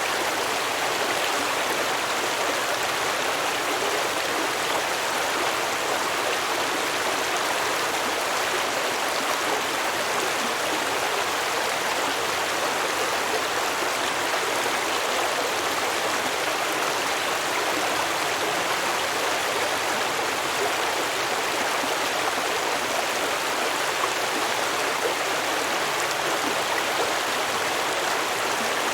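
A small stream babbling over rocks, a steady rushing flow.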